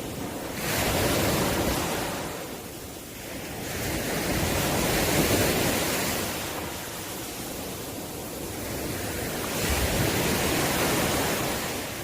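Sea waves washing onto the shore, the surf swelling and falling back three times, about every four seconds.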